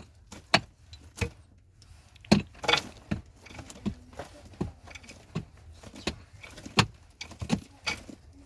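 A digging tool striking hard earth and rock again and again, a little more than one sharp blow a second, as a cave is dug out by hand.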